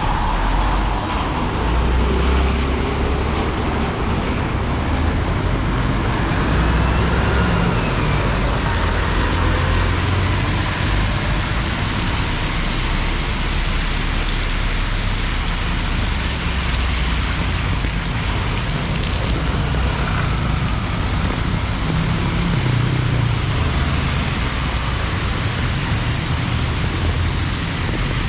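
Rain falling with road traffic on wet streets: a steady hiss of rain and tyres over the low rumble of passing vehicles.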